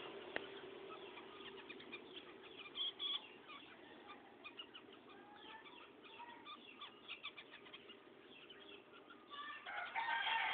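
Small birds chirping in short, scattered calls and clicks, with a louder flurry of calls near the end.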